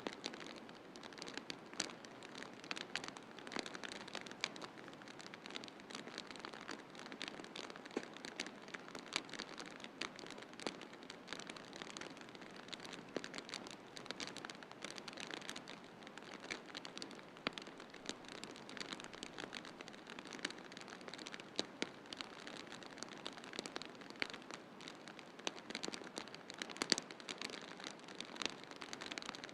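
Wood fire crackling in a fireplace: frequent irregular pops and snaps over a soft, steady hiss.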